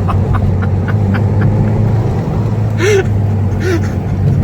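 Porsche 968's 3.0-litre four-cylinder engine running at steady revs as the car drives, a constant low drone that holds its pitch. A few brief higher sounds come in around three seconds in.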